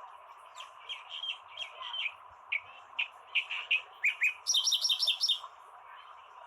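Kerak basi (reed warbler) singing: a string of short chirping notes, then, past the middle, a quick run of about seven higher notes, over a steady hiss.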